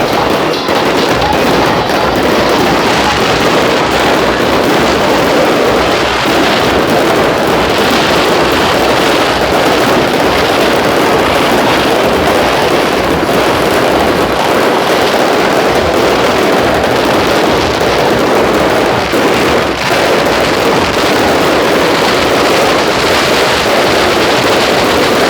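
Fireworks display going off in a dense, unbroken barrage of many overlapping bursts, with no single blast standing out.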